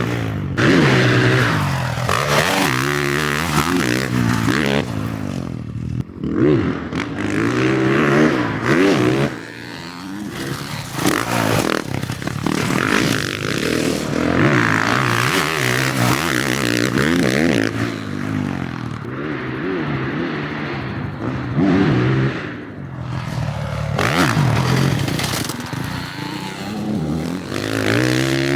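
Motocross bike engine being ridden hard on a dirt track, revving up and down again and again as the rider opens and shuts the throttle through corners and jumps.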